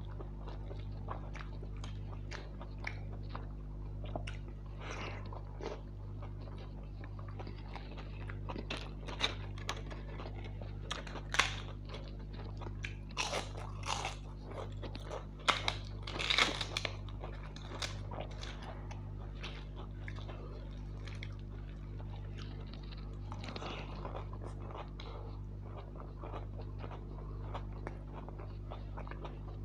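Close-up chewing and mouth sounds of a man eating rice pulao with soya chunks by hand: wet smacking chews and small clicks, with a run of louder, crisp crunching bites about halfway through. A steady low hum runs underneath.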